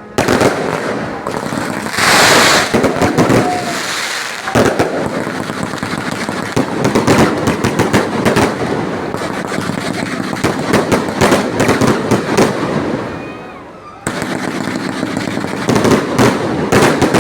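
Fireworks going off in quick succession: a dense run of bangs and crackles, with a louder burst about two seconds in. The crackling dies down briefly near the end, then starts again suddenly.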